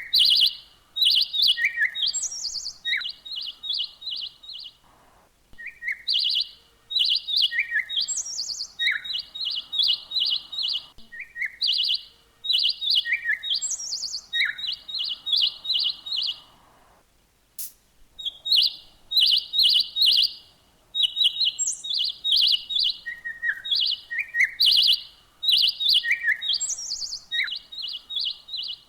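A small songbird chirping in quick runs of high, evenly repeated notes, broken by short lower phrases and rising whistled notes, with a brief pause a little past halfway.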